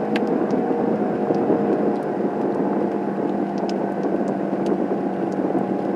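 Steady car cabin noise heard from inside a car: engine running with a steady hum and a few faint ticks.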